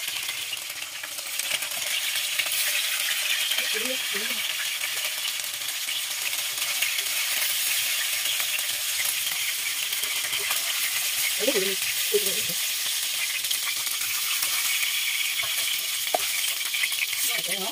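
Turmeric-coated chicken pieces frying in hot oil in a wok, a steady sizzle, with a spatula stirring and scraping the pieces now and then.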